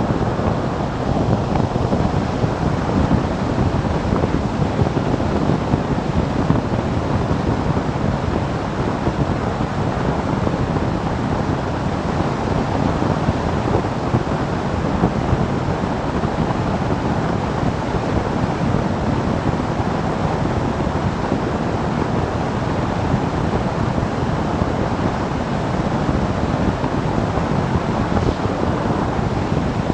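Steady wind rush over the microphone of a camera riding on a moving motorcycle, blended with road noise; no distinct engine note stands out.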